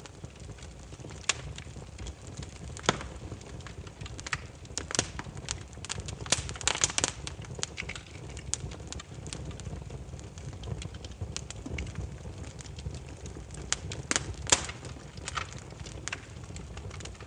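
Burning firewood crackling: irregular sharp pops and snaps over a steady low rumble of the flames, with a flurry of pops around the middle and a single loud snap later on.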